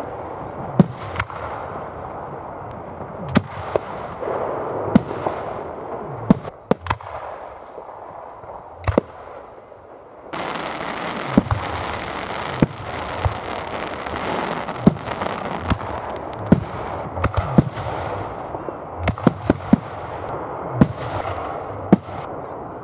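Fireworks display: aerial shells going off with sharp bangs at irregular intervals, over a continuous hiss. The hiss jumps louder about ten seconds in, and the bangs come in quick clusters in the second half.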